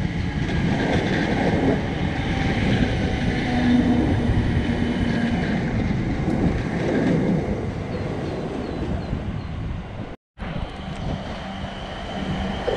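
A Class 455 electric multiple unit running past beneath and drawing away, its wheels rumbling on the track. About ten seconds in the sound cuts out briefly, and then another electric train, a Class 450 Desiro, is heard approaching with a steady hum.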